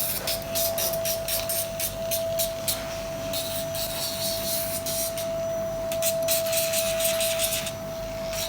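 African grey parrot's beak being filed down: rasping strokes, about three a second, in short runs with pauses, over a steady hum.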